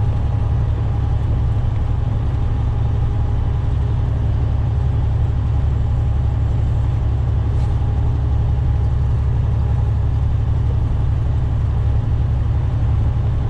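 Steady low rumble of a semi-truck's engine and tyres inside the cab while driving at highway speed, with a faint steady whine above it.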